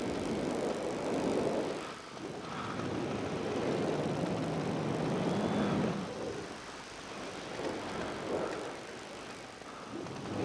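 Wind rushing over the microphone of a paramotor in flight, swelling and fading in waves every few seconds, with the paramotor's engine and propeller running underneath.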